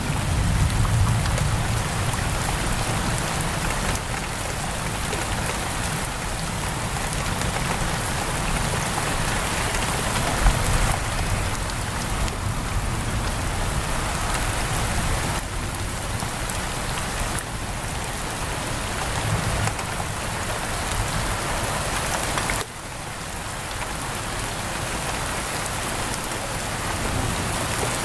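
Steady heavy rain pattering on a window, with a low rumble of distant thunder dying away in the first few seconds.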